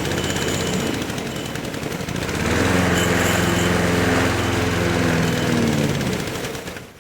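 A Briggs & Stratton 5 HP single-cylinder engine on a Toro lawn mower is running. It grows louder and steadier about two and a half seconds in, then dies away near the end. The owner says the engine runs but bogs down under a load.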